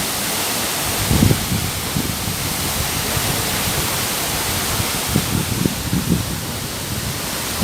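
Waterfall rushing: a steady, loud hiss of falling and splashing water, with a few low, irregular bumps about a second in and again around five to six and a half seconds.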